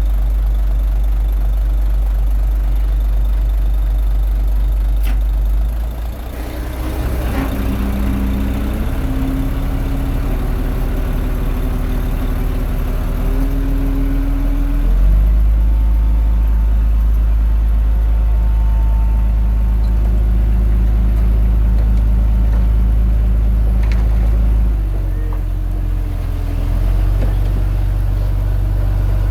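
Komatsu D21A bulldozer's diesel engine running under load. The engine sags briefly about six seconds in and shifts pitch for several seconds. It then steps up louder and higher about halfway through and eases back down near the end.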